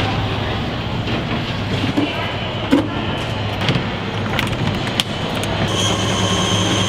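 Assembly-line factory floor noise: a steady machinery hum with scattered clanks and clicks, and a high steady whine that comes in near the end.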